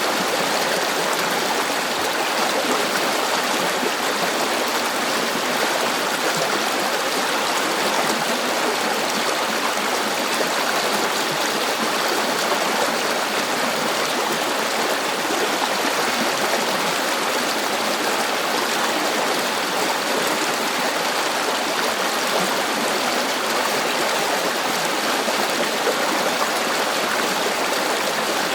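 River water flowing and rushing over rocks: a steady, even water noise with no change throughout.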